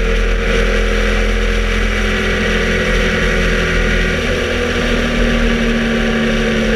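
Cagiva Elefant 750's Ducati air-cooled V-twin engine running at fairly steady revs while riding, with wind and road noise over the microphone.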